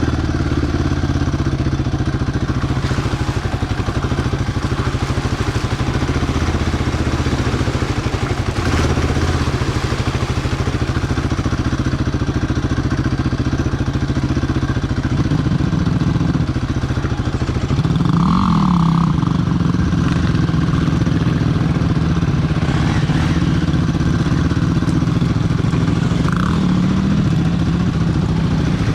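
Quad bike engine running as it is ridden, its revs stepping up about halfway through with a short rise soon after, then holding higher.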